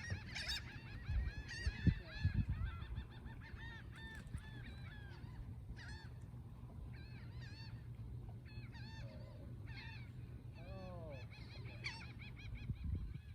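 A gull giving rapid runs of short, repeated distress calls, dense at first and then in shorter bursts, as the bird is seized and held while tangled in fishing line with a hook in its wing. A few low thumps come about two seconds in.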